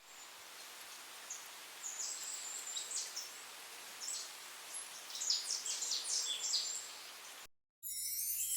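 Birds chirping in short high calls over a steady hiss of outdoor background noise, cutting off suddenly about seven and a half seconds in.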